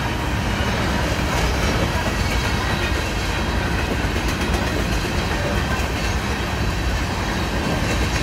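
Covered hopper cars of a freight grain train rolling past a grade crossing: a steady, continuous noise of steel wheels running on the rails.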